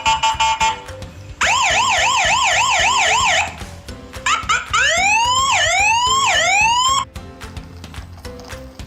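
Electronic emergency siren: a fast up-and-down warble for about two seconds, then after a short break a wail that rises and drops back three times. Soft background music runs underneath.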